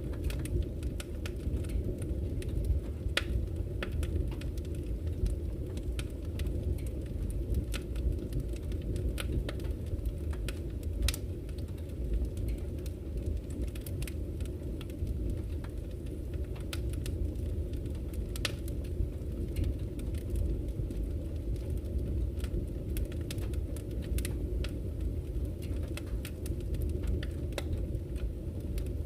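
Wood campfire crackling with frequent, irregular sharp pops and snaps, over the steady low rush of a flowing river.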